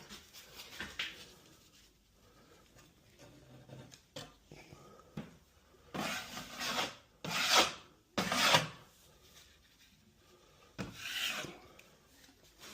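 Drywall knife scraping joint compound over tape on the wall in a few rasping strokes, the loudest coming in the second half.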